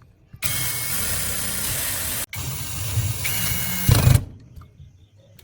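A power tool's high-speed electric motor running loudly for about four seconds with a steady high whine, cut off briefly partway through; the whine steps higher near the end and a heavier low rumble comes just before it stops.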